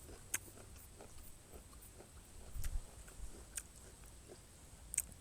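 A person chewing a mouthful of cluster-fig mieng, with faint wet mouth clicks about once a second and a brief low thump about two and a half seconds in.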